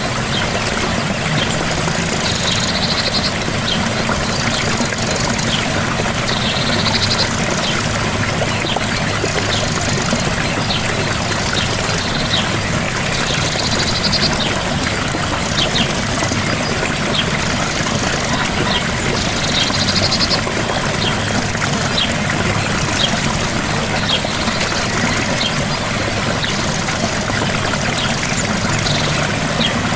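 A small waterfall's steady rush of falling water, with many little splashes and drips. A short high sound recurs about every six seconds.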